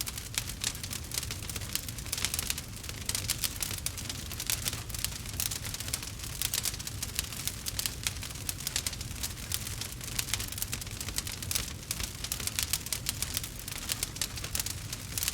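Campfire burning, with dense irregular crackles and pops from the burning wood over a low, steady rumble of flame.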